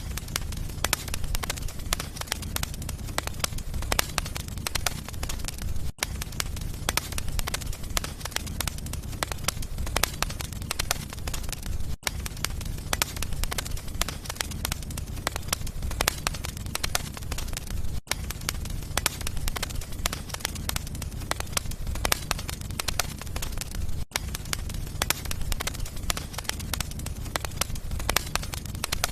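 Wood fire burning in a fireplace, crackling steadily with many small irregular pops over a low rumble. The sound cuts out for an instant about every six seconds.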